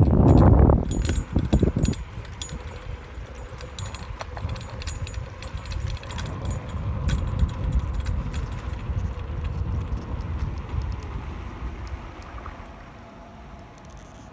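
Bicycle rolling along a paved path: low tyre rumble with small rattles and ticks from the bike. It starts with a loud rush of noise that drops off after about two seconds.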